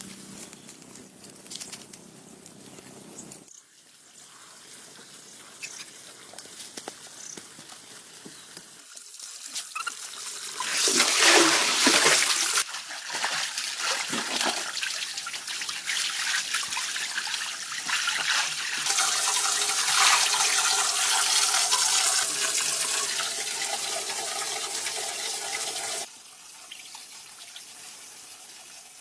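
Water trickling and splashing, heard in several short stretches that cut from one to the next, with the loudest splashing a little before the middle.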